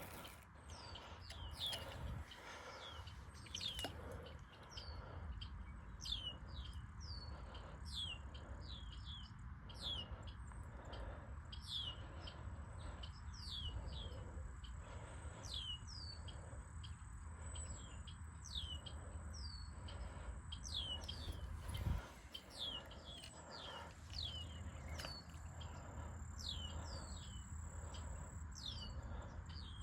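Wild birds chirping, many short falling calls following one another, over a low rumble and a thin high steady whine that comes and goes.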